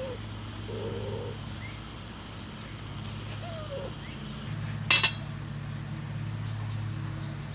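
A dog gives a few short whines, and one sharp clink of dishes or glassware rings out about five seconds in, over a steady low hum.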